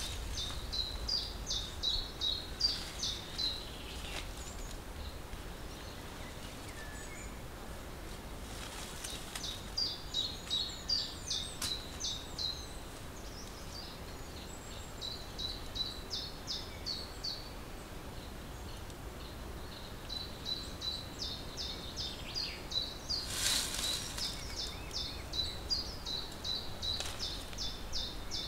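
A small songbird singing in bouts of rapid high chirps a few seconds long, with pauses between. Now and then a short rustle or snap of branches being handled, loudest a little before the end.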